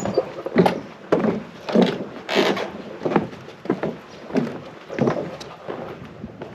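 Footsteps on hollow wooden boards, a steady walking pace of about one and a half to two steps a second, one step about two and a half seconds in sharper and brighter than the rest.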